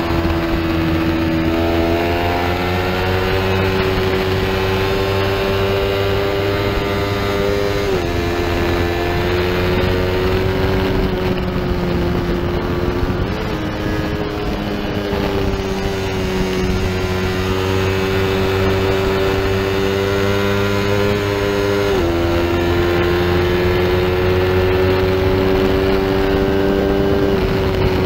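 A small-displacement race motorcycle's engine at high revs under hard acceleration, heard from the bike itself. Its pitch climbs steadily and drops sharply at each upshift, about four times, over a constant rush of wind.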